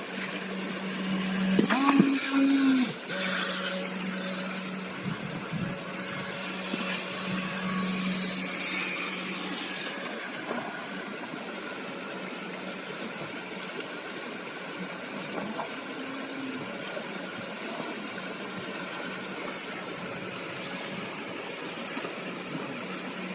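Small electric motor of a toy RC boat running with a steady hum, with water rushing and splashing over it, loudest in a few surges near the start.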